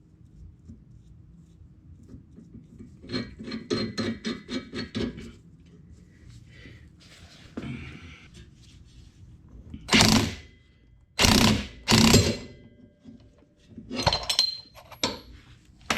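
Hand tools working on a tie-rod ball joint: a quick run of ratchet-like clicks, then several loud metal knocks with a short ring, about 10 s in and again near the end.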